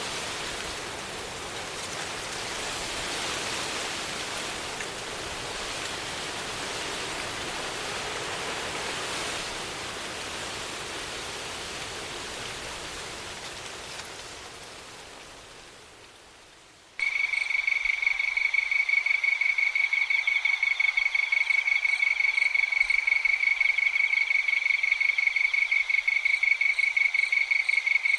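A steady rushing noise that fades away, then, about 17 seconds in, insects start trilling abruptly: a continuous high, rapidly pulsing chirr like crickets at night.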